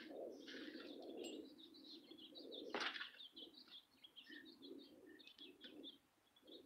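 Faint birds calling outdoors: repeated low calls with scattered high chirps over them, and one short, sharper sound about three seconds in.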